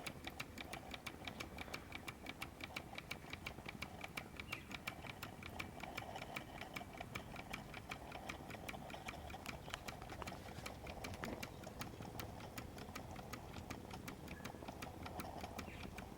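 Mamod SP6 miniature stationary steam engine running slowly on low steam, its double-acting cylinder and exhaust giving a quiet, even ticking of several beats a second.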